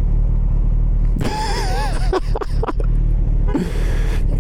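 Motorcycle running steadily at motorway speed, a low drone with wind noise on the rider's helmet microphone. About a second in, a wavering wordless vocal rises over it for a second or so, and a loud rush of wind comes near the end.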